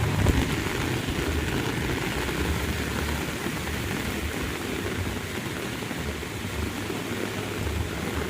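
Heavy rain falling steadily, with an uneven low rumble underneath that comes and goes.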